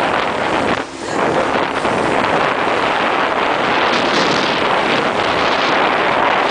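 Wind buffeting the microphone aboard a moving boat: a loud, steady rush with a brief drop about a second in.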